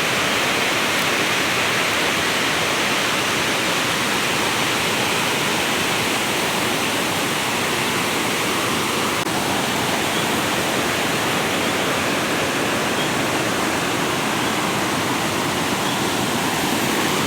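Steady rush of water from a small waterfall, an even roar that holds level throughout.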